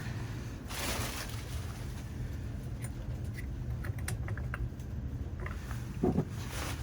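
A brief rustle, then a run of light, irregular clicks and taps from small faucet parts and tools being handled as the faucet is put back together.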